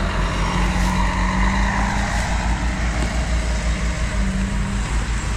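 Wind buffeting the microphone in a fluctuating low rumble during a bike ride, over a steady engine hum from a motor vehicle that fades out near the end.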